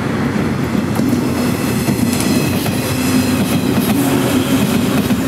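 Electric commuter train passing a few metres away, a loud steady rumble of its wheels running on the rails.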